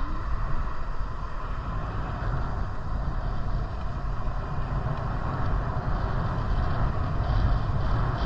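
Wind buffeting the microphone while riding a bike: a steady, rumbling rush of noise with no clear engine note.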